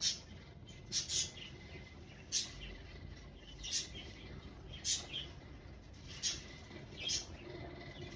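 African grey parrot making short, sharp, high squeaks, about one a second and sometimes two close together.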